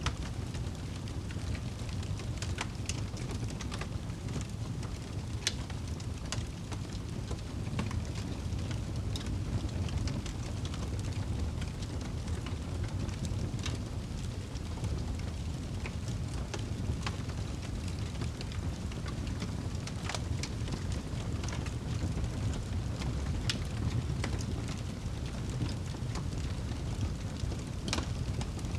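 Wood fire crackling in a fireplace: scattered sharp pops every second or two over a steady low rumble.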